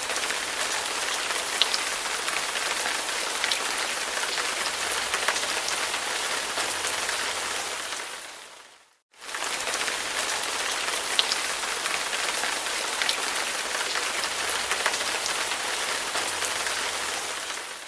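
Recorded rain sound effect: steady rain on a surface with scattered individual drop hits. It fades out about halfway, leaves a brief silence, then starts again as the same loop and fades out near the end.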